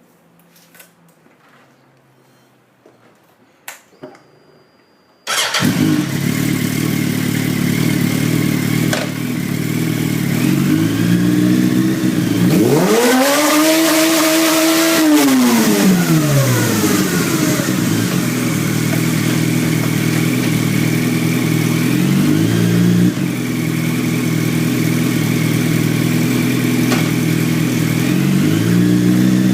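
Yamaha YZF-R1 sport-bike engine starting up suddenly about five seconds in after a few faint clicks, then idling. It is revved up, held high for a few seconds around the middle and let fall back to idle, then starts to rev again near the end.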